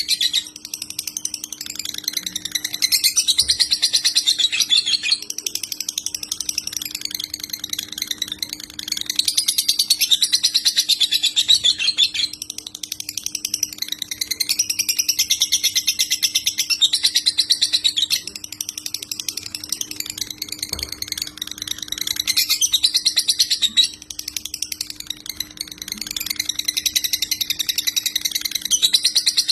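White-rumped shama (murai batu) singing continuously: phrases of a few seconds of rapid-fire chattering notes, the 'tembakan' bursts, one after another. A faint steady low hum runs underneath.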